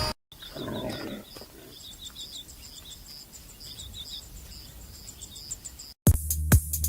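Outdoor insect and bird chirping: a short high chirp repeating about twice a second, with clusters of twittering chirps between.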